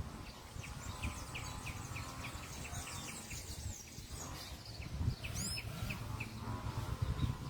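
Small songbirds calling outdoors: a rapid run of short, high chirps, about eight to ten a second, then a second run with a single sweeping whistle in the middle, over a low background rumble.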